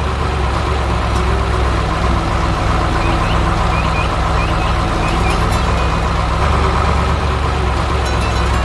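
Heavy vehicle engine running steadily, with a few short high chirps about three to five seconds in.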